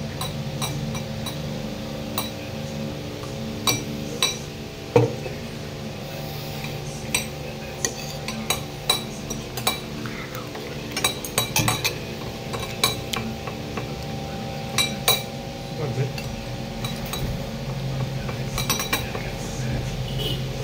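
Cutlery and plates clinking and tapping at irregular moments during a meal, over a steady background hum.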